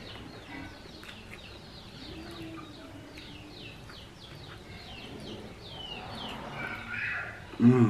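Birds chirping: a rapid run of short, high, downward-sliding chirps, several a second. A brief, loud, low-pitched call comes near the end.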